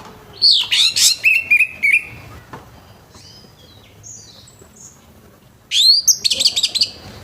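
Orange-headed thrush singing loud, rapid phrases of sweeping high notes and trills, twice about four seconds apart, with faint softer notes in between.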